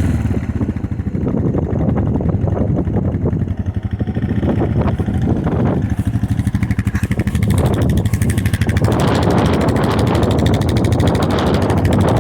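Four-wheeler (ATV) engine running steadily while it warms up after a cold start, with a rapid, even firing pulse.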